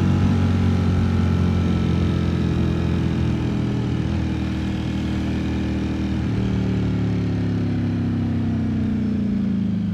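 Ducati Streetfighter V4 S's V4 engine running while the bike is ridden at a steady pace. The engine note shifts once about six seconds in, then falls in pitch near the end as the bike slows.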